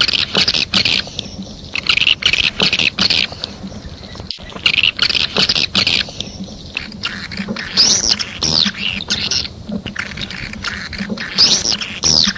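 Swiftlet calls on a lure recording used to draw swiftlets into a nesting house: rapid buzzy twittering in repeated bursts, with a few arched chirps that rise and fall in the second half.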